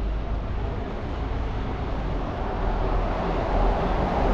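City street ambience: a steady low rumble under a wash of noise, swelling near the end.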